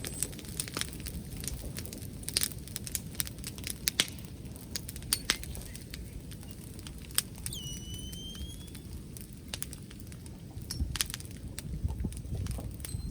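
Wood bonfire crackling, with many irregular sharp pops and snaps over a steady low rumble. A brief thin whistle sounds a little past the middle.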